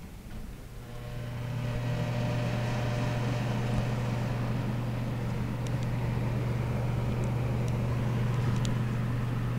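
Sears Kenmore 240-volt wall heater switched on at 3,000 watts: its fan motor spins up about a second in and settles into a steady whir. Over it is a strong, steady mains hum from the still-cold heating elements, with a few faint ticks.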